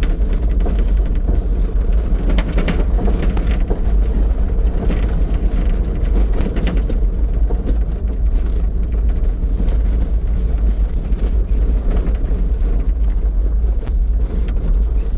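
Mitsubishi L300 4x4 van driving over rough ground: a steady low engine and road rumble with scattered clicks and rattles.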